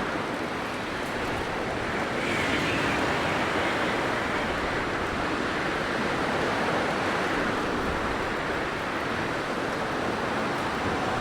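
Blizzard wind blowing in a steady, dense rush of noise that swells slightly about two seconds in.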